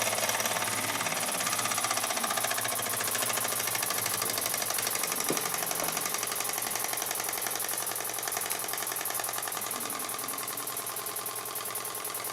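Burnac Vulcan toy live-steam engine running, with fast, even exhaust beats over a steady steam hiss. It is being slowed with its exhaust choke and grows a little quieter toward the end.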